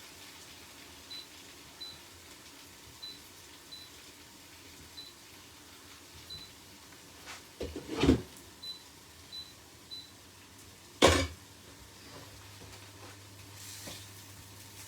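Short, high electronic beeps from a kitchen appliance's push-button controls, about ten of them at irregular intervals, with two loud knocks of cookware about eight and eleven seconds in. A low steady hum starts near the end.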